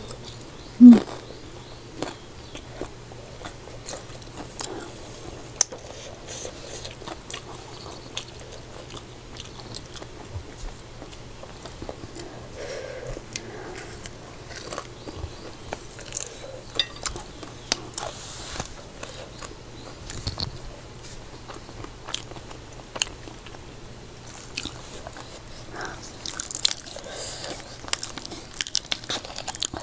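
Close-up eating sounds: chewing and biting into a fried dumpling, with many short wet clicks and crunches. A brief loud puff or mouth sound comes about a second in.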